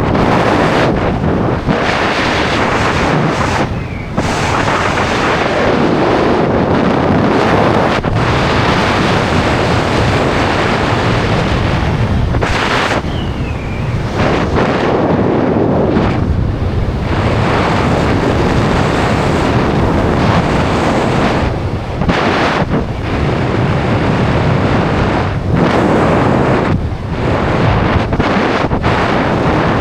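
Loud wind rushing over the microphone of a skydiver's camera, buffeting unevenly, with several brief drops in level.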